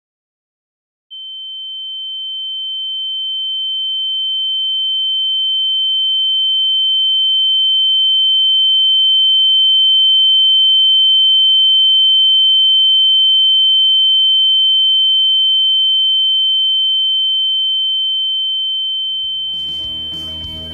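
A single high-pitched electronic sine tone, one steady pitch, that begins about a second in, slowly swells louder, then gradually fades; music comes in under it near the end.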